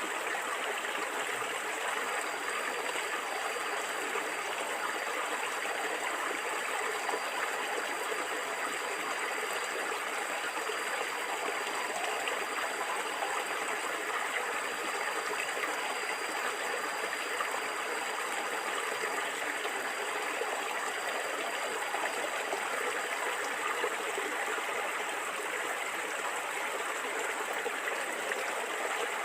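Stream water flowing and gurgling in a steady, even rush.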